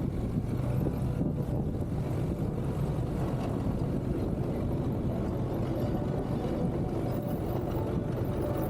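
CFMoto 650 motorcycle's parallel-twin engine running steadily under way, with wind noise on the microphone.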